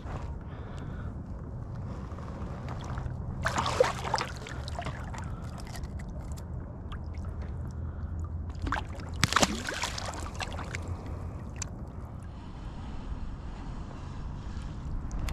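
Wind rumbling on the microphone over water lapping around a kayak, with two brief louder splashy sounds about four and nine seconds in.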